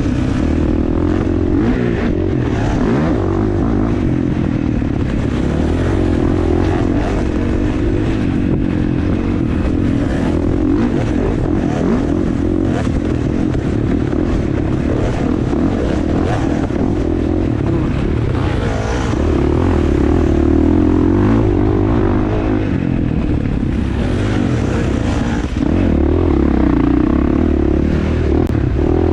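Dirt bike engine running while being ridden, the throttle opening and closing continually, with louder pulls about twenty seconds in and again near the end.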